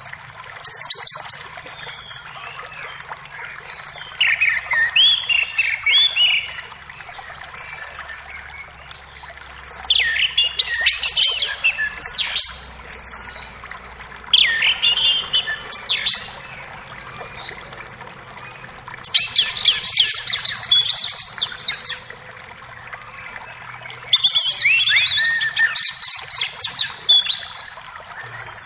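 Songbirds singing in a forest: one bird repeats a short, high note about every two seconds, while others break in every few seconds with bursts of varied song full of quick sweeping notes. A faint, steady wash of creek water runs underneath.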